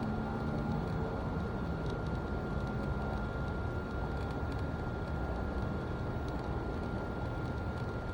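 Steady low rumble of vehicle noise with a thin, constant high-pitched tone over it; a faint engine-like hum fades out about three seconds in.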